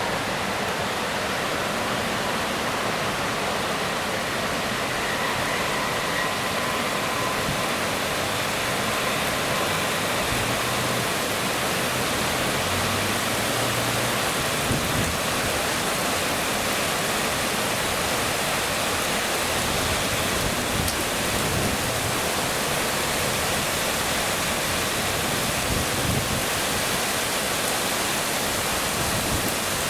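Heavy rain pouring down in a steady, dense hiss. A faint high whine fades out within the first several seconds.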